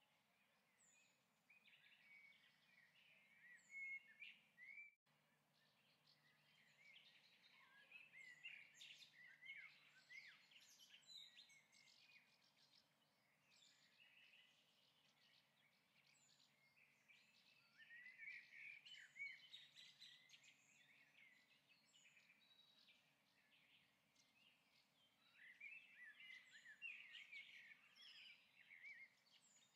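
Faint birdsong: bouts of chirping and twittering that come and go several times, with a brief dropout about five seconds in.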